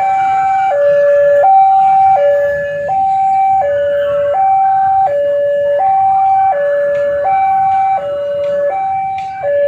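Railway level-crossing warning alarm sounding a two-tone hi-lo pattern, a higher and a lower note alternating about every 0.7 seconds.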